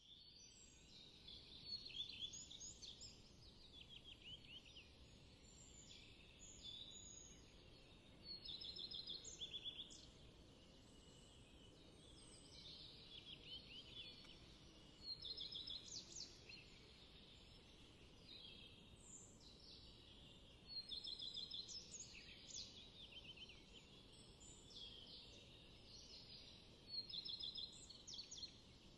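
Songbirds singing faintly in short repeated phrases with quick trills, a new phrase every few seconds, over a steady low background hiss.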